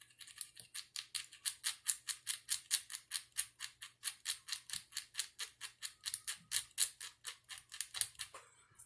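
Rapid, even scraping strokes of a small hand tool on the part being repaired, about six a second, stopping shortly before the end.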